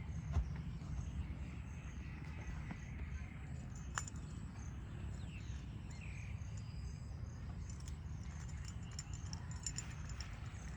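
Insects chirping in a regular high pulse about twice a second over a steady low rumble, with a single sharp click about four seconds in.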